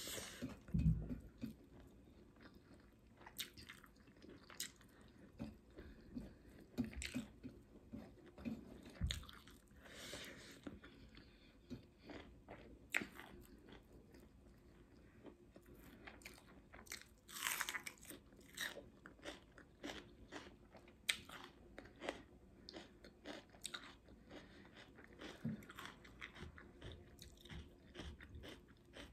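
Close-miked mouth sounds of eating: irregular chewing and crunchy bites of raw red onion, with one longer, louder crunch a little past the middle.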